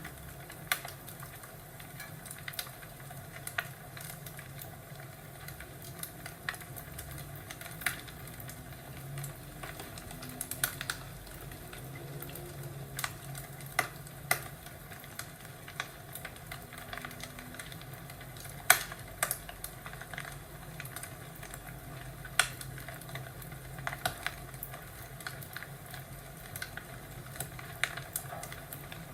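Crackling fireplace: irregular sharp pops and snaps, one every second or two, over a steady low background.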